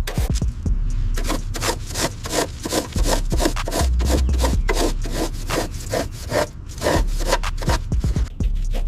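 Rapid back-and-forth rubbing strokes by hand, about three a second, as of scrubbing or sanding a surface, going on steadily.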